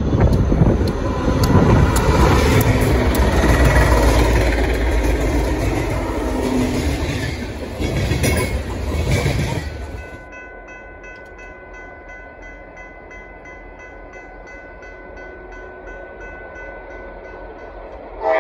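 A pair of EMD SD60 diesel locomotives, each with a 16-cylinder two-stroke engine, run loud and close as they lead a coal train past, with heavy low rumble and wheel noise. About ten seconds in, the sound cuts abruptly to a grade-crossing warning bell ringing steadily at about three strikes a second.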